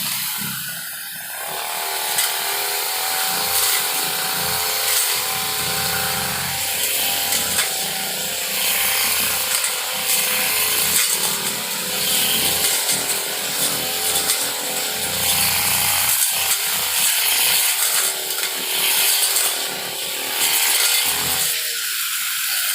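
Two-stroke brush cutter (grass-cutting machine) engine running steadily at high speed.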